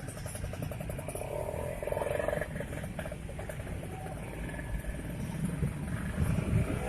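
Steady low rumble of wind and traffic noise on the microphone while travelling along a busy road, with faint higher tones over it.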